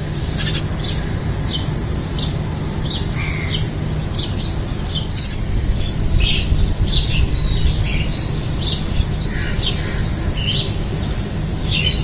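Birds chirping: short, sharp, high-pitched calls, about two a second, over a low steady rumble.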